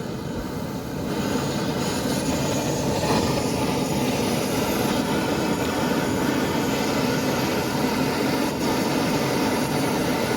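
Steady mechanical rumbling noise, a little louder from about a second in.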